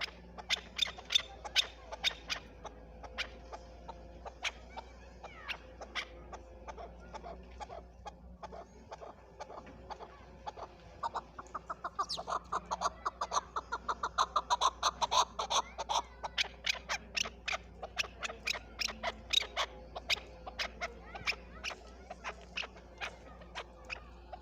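Chukar partridge calling: a long series of sharp clucking notes, which come faster and louder in a dense run from about twelve to sixteen seconds in.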